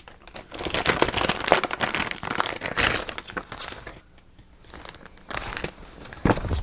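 Paper ephemera pieces and their packaging crinkling and rustling as they are rummaged through by hand, dense at first, then quieter and sparser after a short pause. A soft knock sounds near the end.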